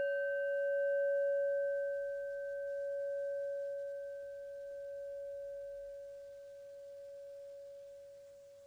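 Meditation bell ringing out after a single strike: one clear tone with fainter higher overtones that fade sooner, swelling gently as it slowly dies away. It marks the start of the meditation practice.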